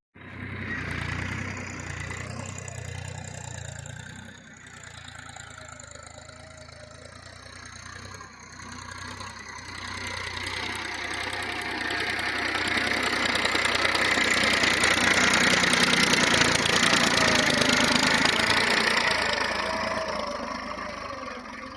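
Massey Ferguson 1035 DI tractor's three-cylinder diesel engine running, steady at first, then growing louder from about halfway through and easing off again near the end.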